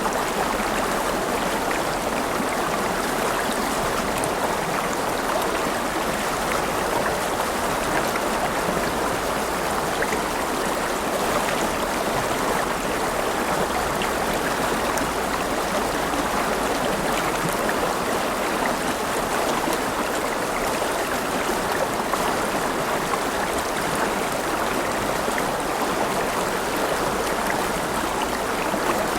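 River water running over stones, a steady rushing and gurgling with faint splashes.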